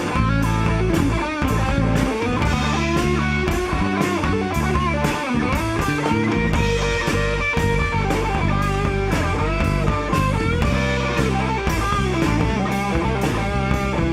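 Live rock band playing an instrumental break: an electric guitar solo with bent notes over bass and a steady drum beat.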